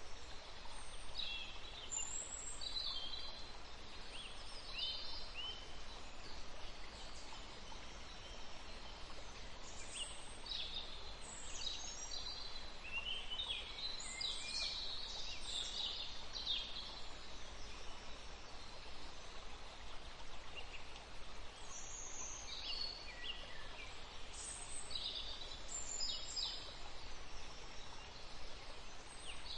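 Small birds chirping in scattered bursts of quick, high notes over a steady background hiss.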